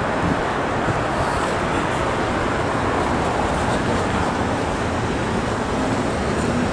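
Steady street traffic noise, a continuous even rumble and hiss.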